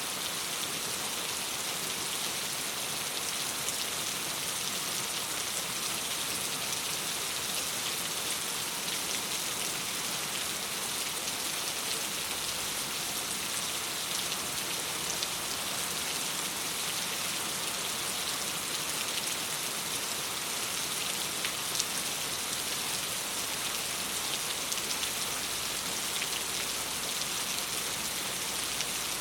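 Steady rain pattering on a window pane, an even hiss of drops, with a few faint sharp ticks scattered through it.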